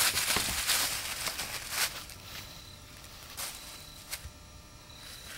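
Rustling and scuffling through dry leaves on the ground, with scattered clicks and knocks, louder for about the first two seconds and then quieter.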